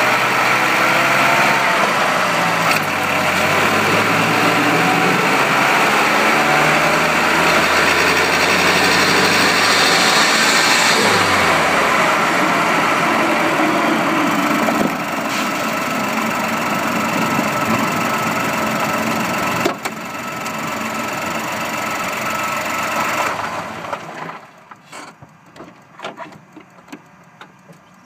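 Mazdaspeed3's 2.3-litre turbocharged four-cylinder engine running with a loud, harsh noise over its hum, which the owner hopes is only noisy high-pressure fuel pump internals. The engine's pitch rises and falls in the first dozen seconds. The sound drops away suddenly about 24 seconds in, leaving a few scattered clicks.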